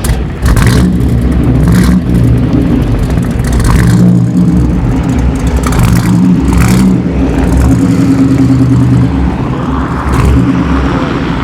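A car engine running loud and deep, with several short throttle blips over its uneven idle.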